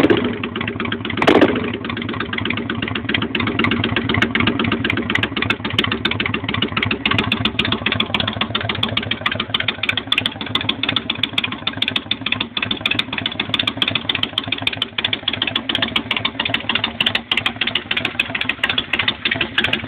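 Honda Shadow VT600's V-twin engine running through empty, baffle-less exhaust pipes: two quick throttle blips near the start, then a steady idle.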